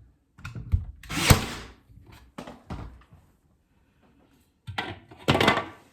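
Knocks and thuds of wooden pieces being handled and set in place, the loudest about a second in, with a few lighter taps and a longer clattering burst near the end.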